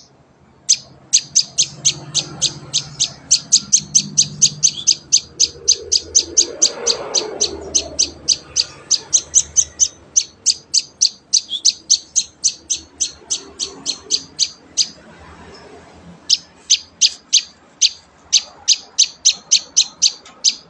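Young prenjak lumut (a hand-raised songbird chick) calling in a fast, steady series of short high chirps, about four to five a second, with a pause of about a second some fifteen seconds in.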